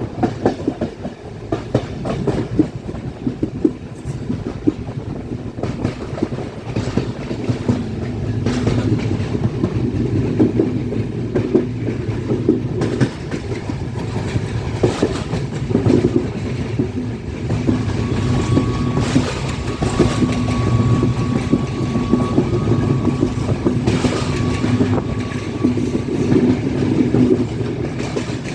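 Passenger train running along the line with a steady rumble, its wheels clicking over the rail joints. A faint, thin whine comes in a little past the middle.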